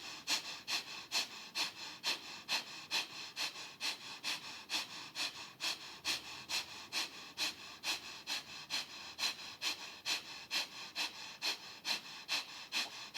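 Breath of Fire: fast, even, rhythmic breathing in and out through the nose, short sniff-like puffs at about three a second, held at a steady pace.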